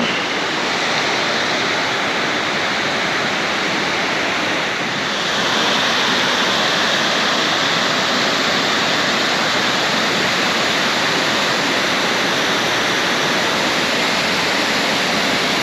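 Loud, steady rush of water tumbling over rocks in a rainforest river, growing a little louder about five seconds in.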